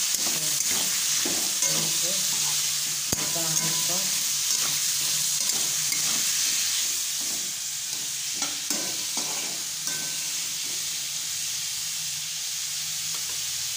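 Diced raw papaya with turmeric frying in oil in a kadhai: a steady sizzle, with a spatula scraping and stirring the pieces through the pan again and again, the stirring easing off in the second half.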